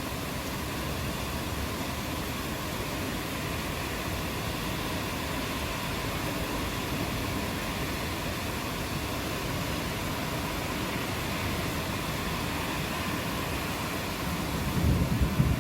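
Steady rain falling as an even hiss. In the last second a low rumble of thunder begins to swell.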